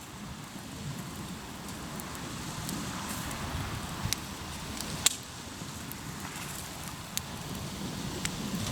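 Hardwood campfire crackling in a fire-pit stand, with a few sharp isolated pops about four and five seconds in and again near the end, over a steady low rush.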